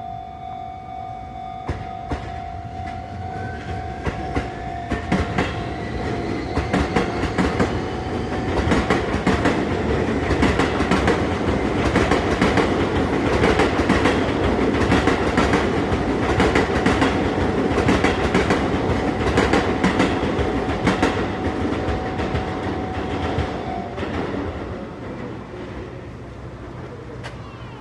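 A Sotetsu train passing over a level crossing, its wheels clacking rapidly over the rail joints and loudest in the middle. A steady crossing warning bell sounds throughout and cuts off about four seconds before the end, once the train has cleared.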